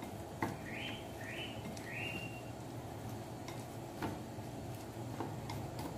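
A bird chirps three times in quick succession, short sweeping notes, over light scattered clicks of chopsticks working marinated meat and shrimp in a bowl.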